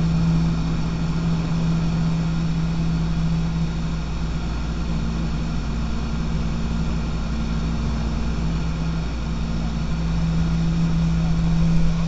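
Light aircraft's piston engine and propeller droning at a steady, unchanging pitch in flight.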